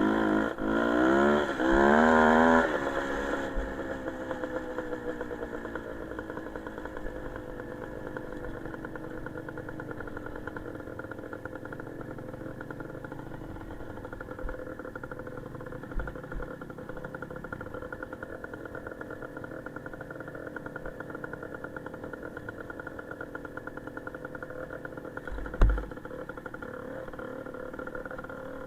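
Small motorcycle engine revved hard for about three seconds, then dropping back and running steadily at low revs, with a single knock near the end.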